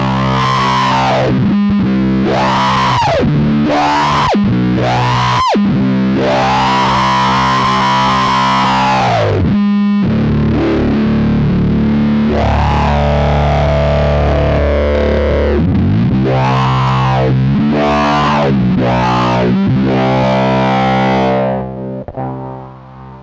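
Electric guitar through the AC Noises URLA's square-wave fuzz and resonant low-pass filter. An expression pedal sweeps the filter peak up and down in repeated wah-like arcs over sustained fuzzed notes. The sound fades away near the end.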